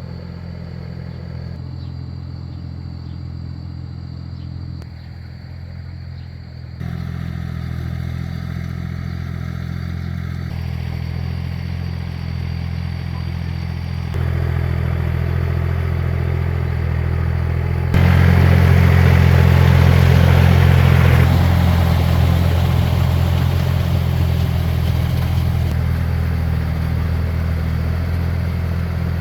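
Two-wheel farm tractor's engine running steadily. Its level jumps abruptly louder or quieter several times, loudest a little past the middle.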